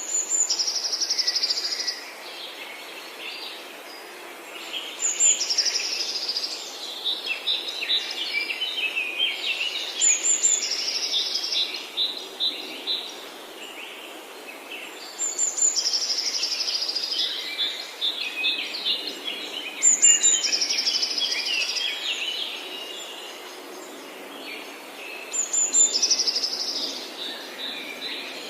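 Songbird singing in a forest, repeating one song phrase about every five seconds: each begins with high notes and a fast trill, then drops into lower chirps. Under it runs a steady hiss.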